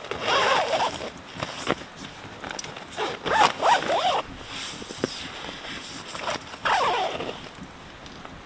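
A zipper being pulled in three long strokes, a few seconds apart, with small clicks and rustles between them.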